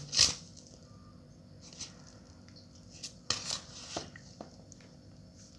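A loud hiss right at the start, then a few scattered short rustles and clicks of small objects being handled.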